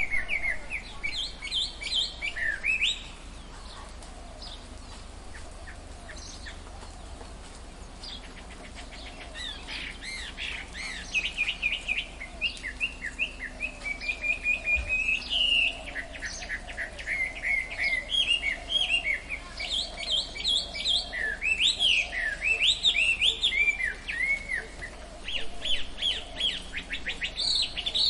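Tropical forest birds chirping and calling, many quick rising and falling notes overlapping. There is a lull of a few seconds near the start, then the calls pick up again and grow busier.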